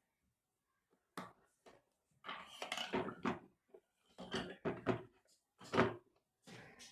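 Light clatter and rustling of objects being handled on a workbench, in several short bursts, typical of multimeter probes and tools being moved around a motherboard.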